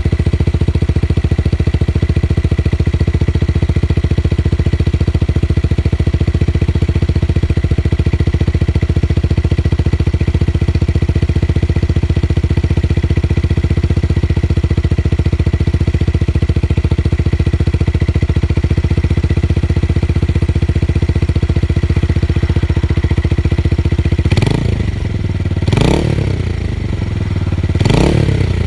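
Tuned motorcycle engine idling with a steady, deep bass note, then revved in three short throttle blips near the end, each rising and dropping back to idle.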